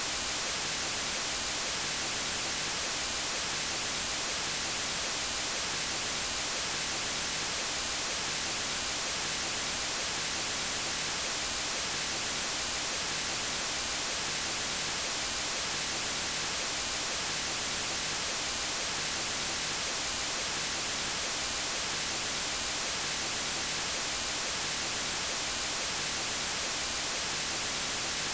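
Steady synthetic white noise, an even hiss brightest in the treble that does not change.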